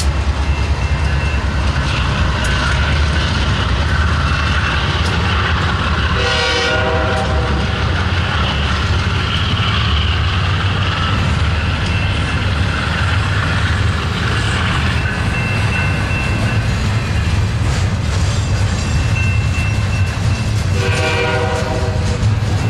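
Slow BNSF double-stack intermodal train rolling past: a steady deep rumble of diesel locomotives and well cars on the rails. Two short horn blasts of about a second each sound, one about six seconds in and one near the end.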